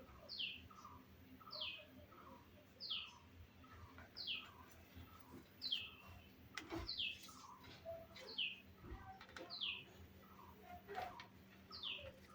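A bird calling over and over: the same short, high, falling chirp repeats steadily about every second and a half. Two sharp clicks fall between the calls in the second half.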